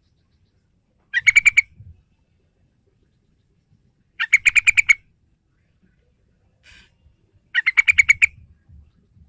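Yellow-vented bulbul (trucukan) singing three short phrases, each a quick run of about half a dozen notes, spaced about three seconds apart.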